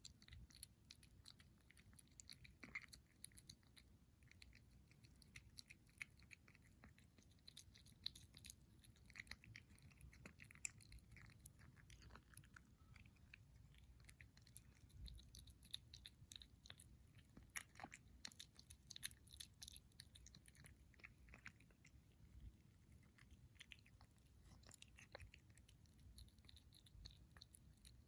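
A kitten chewing and eating its food: a faint, irregular run of small clicks and smacks.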